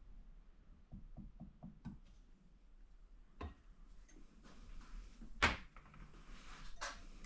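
Light clicks and knocks of small engine parts being handled at a workbench, with a quick run of faint ticks about a second in and a sharper knock about five and a half seconds in.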